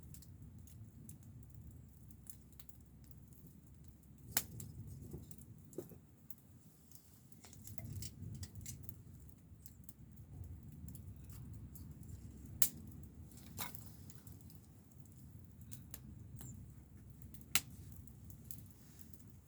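Wood campfire crackling: a low steady rumble with scattered sharp pops, three of them standing out loud.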